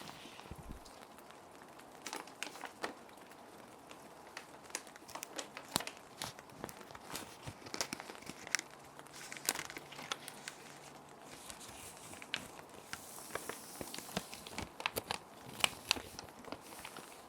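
Plastic sheet protectors crinkling and crackling in irregular bursts as paper sheets are slid into and handled in them, over a steady soft hiss of rain.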